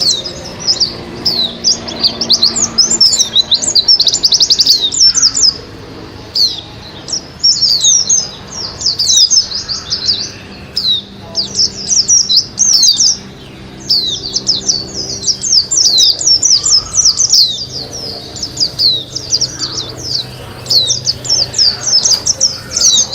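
White-eye (pleci, Zosterops) singing: fast, high-pitched twittering phrases in runs of a few seconds, with short breaks between them.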